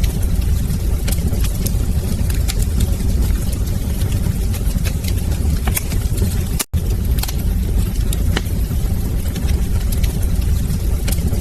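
Wood fire crackling in a fireplace: scattered sharp pops and snaps over a steady low rumble of the flames. The sound cuts out for a split second about two-thirds of the way through.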